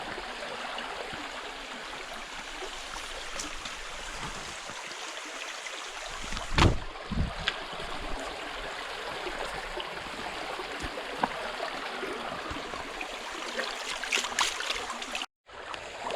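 Small river running over stones: a steady rush of flowing water, with one sharp knock about six and a half seconds in and a few fainter clicks.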